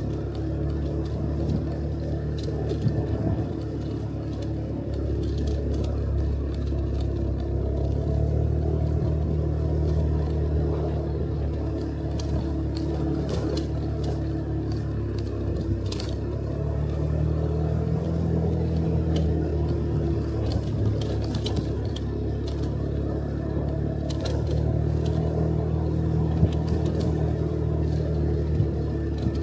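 Motorcycle engine running steadily under way, its pitch drifting up and down with speed, with scattered light rattling clicks.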